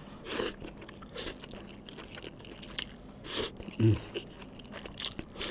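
Close-up chewing of a mouthful of fried flat rice noodles (kwetiau), with several short wet mouth sounds a second or more apart.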